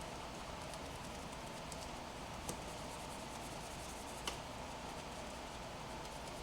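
Cloth rubbing over car paint during a hand wash, a steady soft scrubbing, with two sharp clicks about two and a half and four seconds in.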